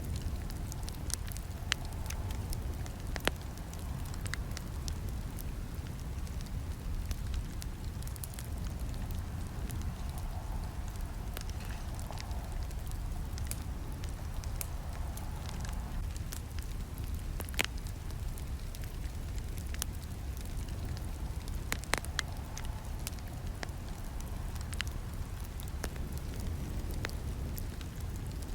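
Wood campfire burning, with a steady low rumble of flames under irregular crackles and sharp pops. A few louder snaps stand out, one early on, two more past the middle.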